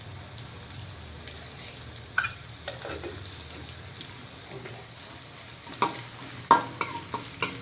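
Onions sizzling in hot oil in a kadhai as they are stirred, with a few sharp scrapes and knocks against the pan, the loudest coming in the last two seconds.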